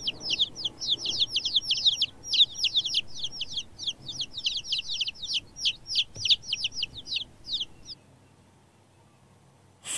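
Baby chicks peeping: a fast, continuous run of short, high-pitched cheeps, several a second, that stops about eight seconds in.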